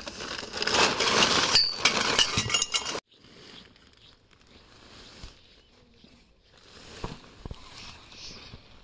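Gear being pulled out of a rustling bag, with small hard items clinking together, for about three seconds. The sound then cuts off abruptly to a faint background with a few soft taps.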